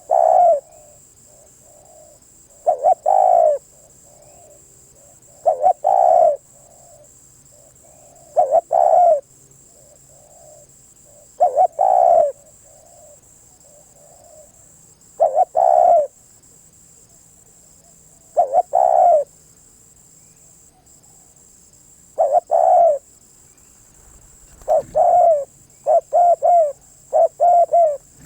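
Spotted dove cooing: a short coo phrase repeated about every three seconds, breaking into a quicker run of short coos near the end.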